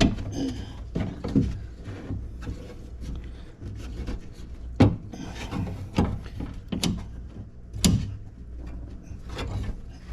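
Irregular knocks, clicks and rubbing as the window glass and the new window regulator are handled inside a car door while the glass's pins are worked into the regulator's holes, with the sharpest knocks about five, seven and eight seconds in.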